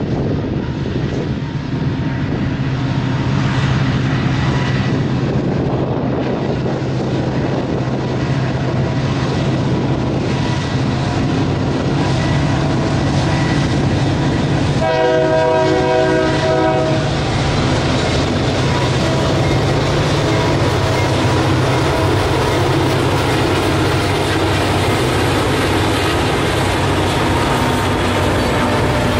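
Union Pacific diesel freight train rolling over a steel girder bridge: a steady low rumble with wheel clatter as a long string of open-top hopper cars passes. About halfway through, a horn chord sounds for about two seconds.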